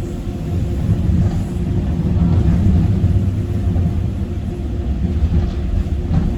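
Docklands Light Railway train running, heard from inside the front car: a steady low rumble from the wheels and running gear with a faint steady hum, growing louder about a second in.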